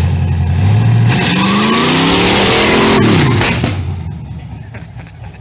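Kawasaki Z125's single-cylinder engine revving up under acceleration: its pitch climbs for about two seconds, then drops and fades as the throttle closes. A loud rushing noise lies over it while it pulls.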